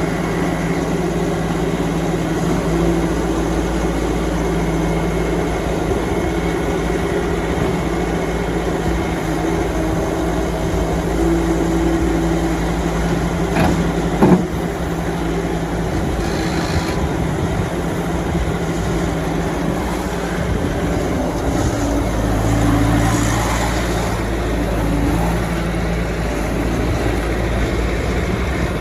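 Bobcat S570 skid steer loader's diesel engine running steadily, with two sharp knocks about halfway through and a change in the engine note in the last third.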